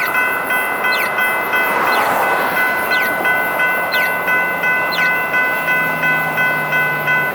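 Electronic crossing bells (GS Type 3 e-bells) ringing, repeating strokes about twice a second over a rushing background. The bells cut off abruptly near the end as the crossing signal deactivates.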